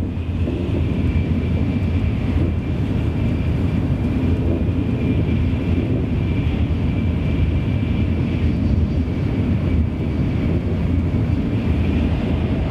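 Cabin noise of a Tokaido Shinkansen bullet train running: a steady low rumble with a thin, steady high whine above it.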